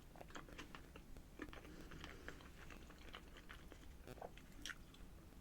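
Faint close-up chewing: a person eating with small wet mouth clicks and smacks at an uneven pace.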